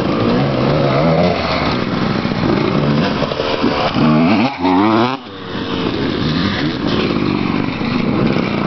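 250cc two-stroke motocross bikes being ridden hard, the engine pitch rising and falling again and again as they rev; about five seconds in one engine climbs sharply and then briefly drops off.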